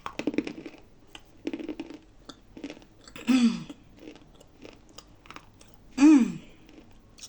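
A mouth biting and chewing dry, unsalted nzu clay, with bursts of crisp crunching, mostly in the first two seconds. Twice, a little after three seconds and again about six seconds in, a voice gives a loud hum that falls in pitch, louder than the crunching.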